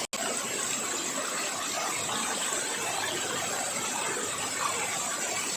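Steady rush of water from a small forest stream and waterfall, with a faint high steady tone above it.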